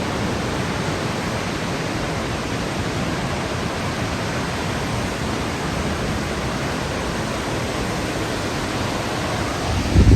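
Burney Falls waterfall: the steady rushing of falling water. A brief low rumble comes near the end.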